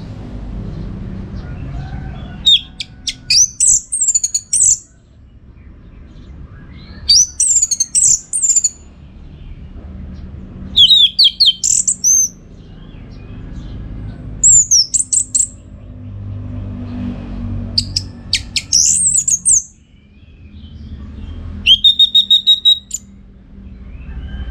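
Orange-headed thrush singing: about six loud bouts of fast, slurred high whistles, each a second or two long with pauses of a couple of seconds between them, over a low background rumble.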